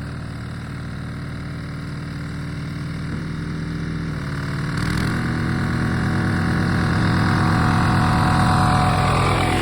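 Walk-behind power tiller's single-cylinder diesel engine running with a steady knocking beat, getting louder from about five seconds in.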